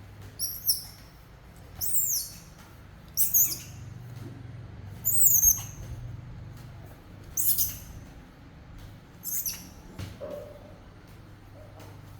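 Baby monkey giving short, very high-pitched squeaks, about six of them a second or two apart, most sliding down in pitch.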